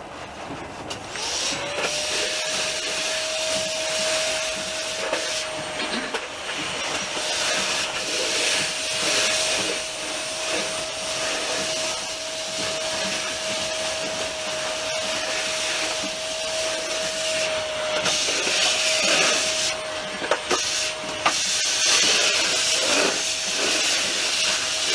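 Passenger train running, heard from on board: a steady hiss and rumble of the moving train with a whine that rises in pitch about a second and a half in and then holds at one note, and scattered knocks and clatter.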